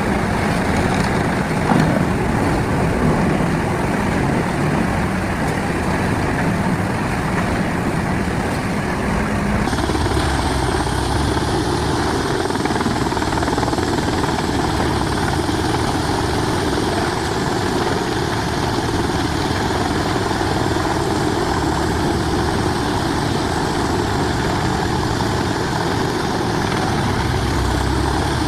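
Heavy diesel-powered wood chipper running steadily, loud and continuous. The sound changes abruptly about ten seconds in.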